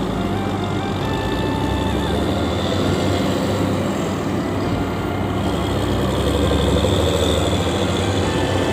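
Heavy truck engines running at low speed as trucks are driven off a ferry, a steady low rumble that swells a little about six seconds in.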